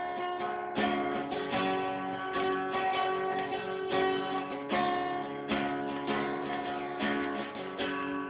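Acoustic guitar strummed in a steady rhythm, chords ringing between strokes, playing the instrumental break of a country song.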